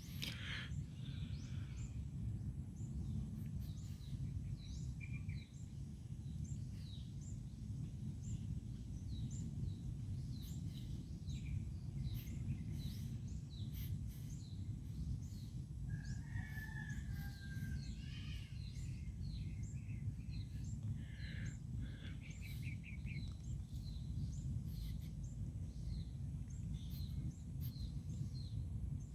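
Birds chirping over and over in short high notes over a steady low rumble, with one longer call about sixteen seconds in.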